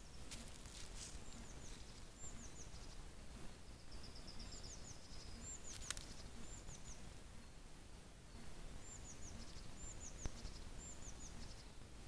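Faint birdsong: short high chirps in groups of two or three, repeating about once a second, with a brief rapid trill around four seconds in, over low steady background noise. A few sharp clicks stand out, one about six seconds in and one about ten seconds in.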